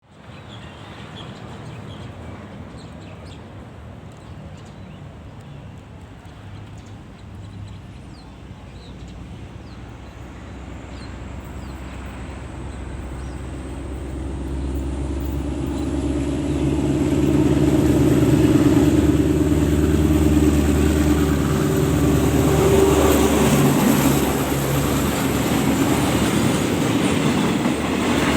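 Diesel-hauled train approaching along the track, growing steadily louder for about 18 seconds and then running close by. The locomotive's engine is heard under a faint high whine.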